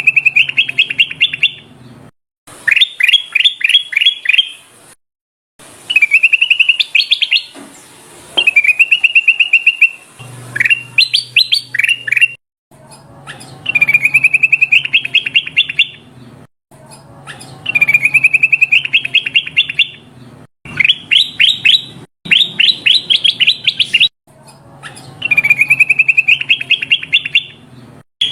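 Kutilang emas bulbul singing: loud phrases of about two seconds, each a rapid warbling trill followed by quick sharp notes, repeated every few seconds with short pauses between.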